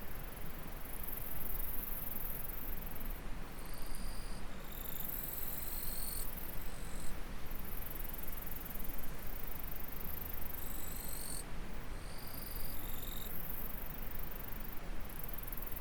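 A stream flowing with a steady rush, under a continuous high buzz of insects. Short, flat, high-pitched notes come in small groups every few seconds.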